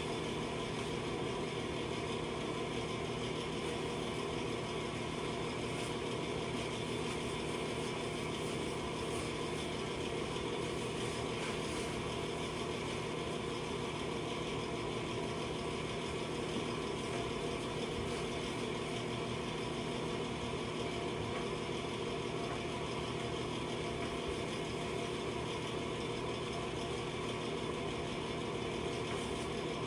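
A steady, unchanging machine hum with several held tones, like a small motor or fan running.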